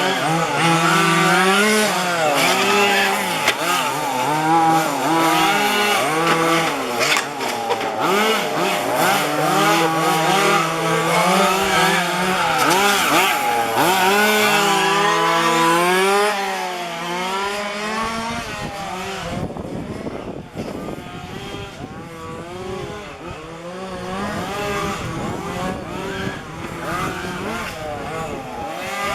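Several 1:5 scale petrol RC cars' small two-stroke engines buzzing and revving up and down as they lap the track, more than one engine at a time. The engine sound is loudest for the first half and drops back about sixteen seconds in.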